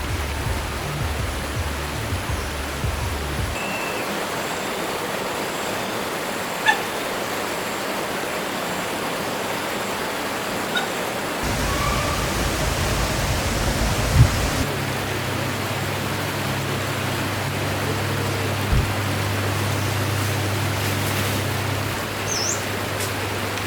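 Water of a forest stream flowing steadily, with a few faint short chirps and an occasional sharp click or knock.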